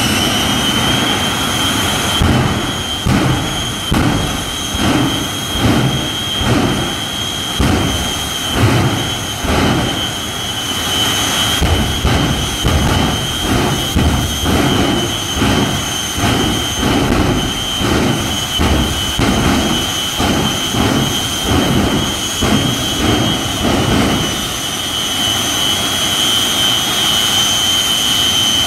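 The Shockwave jet truck's three jet engines run with a high, steady whine that finishes rising just after the start. Under the whine is a low rumble that pulses rhythmically, about three pulses every two seconds, then settles to a steady rumble near the end.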